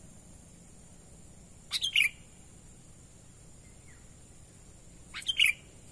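Sooty-headed bulbul (kutilang) calling: two short phrases of quick notes, about two seconds in and again near the end.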